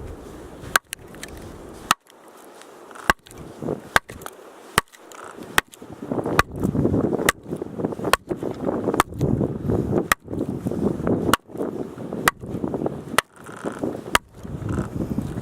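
Axe splitting firewood: a run of sharp chopping strikes, about one a second.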